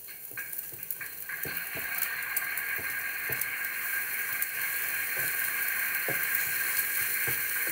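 Scrambled eggs sizzling on a flat-top griddle, getting louder about a second in, while a spatula scrapes and taps across the griddle surface about once a second.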